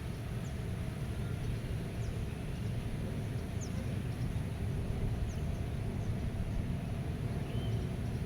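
Meadow ambience: a steady low rumble of wind, with faint short high bird chirps about once a second and a brief bird call near the end.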